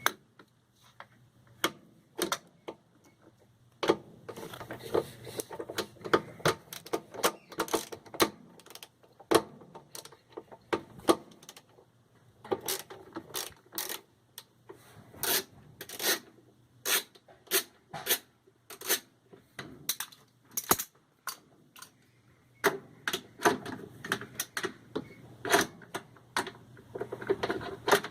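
Irregular metallic clicks and taps from a hand tool working the 5/16-inch hex screws that hold the sheet-metal belt guard on a Maytag Centennial washing machine. There is a short lull near the end.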